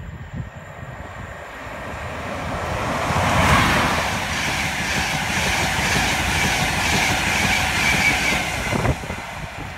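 A locomotive-hauled InterCity 225 express passes non-stop through a station. The noise builds over the first few seconds and is loudest as the locomotive goes by. The coaches then rush past with a rhythmic clatter of wheels over the rails, and the sound drops away near the end.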